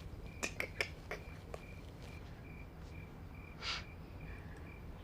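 Crickets chirping in a steady, evenly pulsed rhythm, a few chirps a second, with a few light clicks in the first second and a soft rustle a little past the middle.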